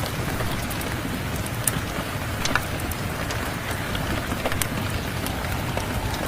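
Steady rain, with a wood fire crackling: scattered sharp pops and snaps over the even hiss of the rain.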